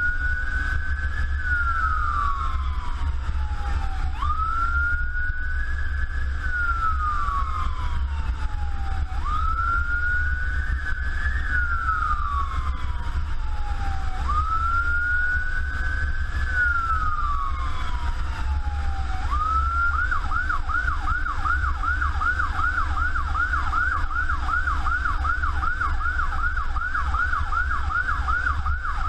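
Emergency vehicle's electronic siren running on wail, slow rising-and-falling cycles about five seconds long, switching about two-thirds of the way through to a fast yelp of about two and a half sweeps a second, over a steady low engine and road rumble.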